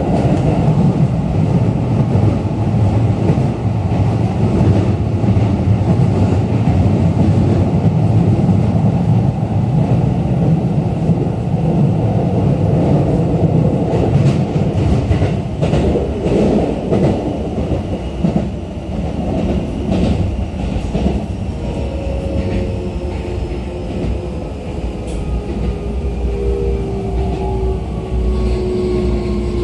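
Running noise inside a Keikyu New 1000 series electric train car: a steady rumble of wheels on rail, with a few rail-joint clacks about halfway through. In the last third a motor whine falls steadily in pitch as the train slows.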